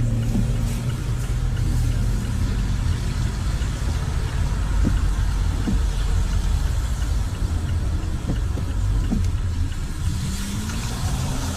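A motor vehicle's engine running steadily with a low rumble, its pitch drifting a little, with a few faint knocks.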